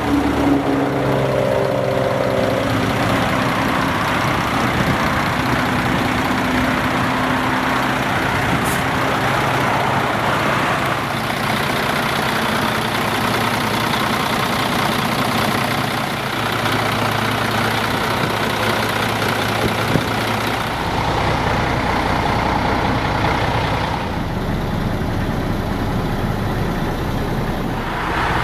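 Engine of a 2007 Sport Chassis M2 hauler truck (Freightliner M2-based, diesel) running steadily, a low even hum with broad mechanical noise over it. The tone shifts slightly a little past the middle and again later.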